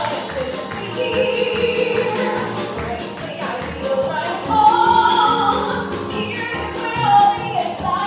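A woman singing a song with instrumental accompaniment that keeps a steady beat.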